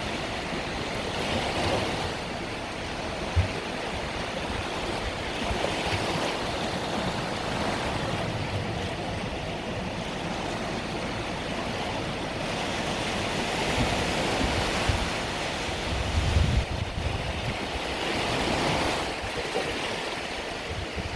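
Small Mediterranean waves breaking and washing on the shore, swelling every few seconds, with wind buffeting the microphone as low rumbles and a brief thump about three and a half seconds in.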